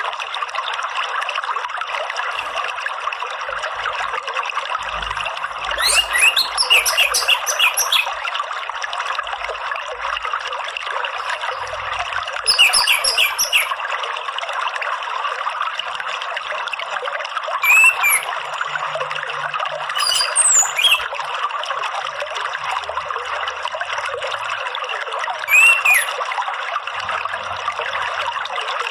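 Steady running water, with a small bird's chirps and short trills breaking in five times, the longest about two seconds.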